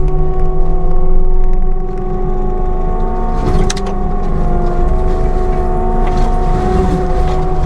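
CAT 299D3 XE compact track loader running with its Fecon forestry mulcher, a steady diesel drone with a whine whose pitch shifts a couple of times as the load changes. A short crackle of sharp clatters about halfway through.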